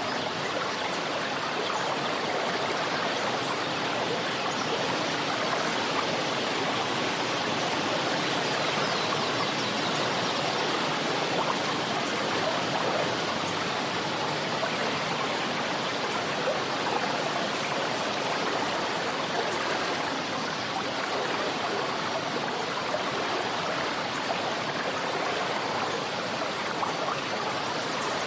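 A forest river flowing and rushing over rocks, a steady even rush of water with no break.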